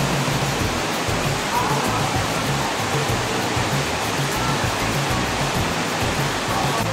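Loud, steady rushing hiss of heavy rain, with background music and its repeating bass line underneath.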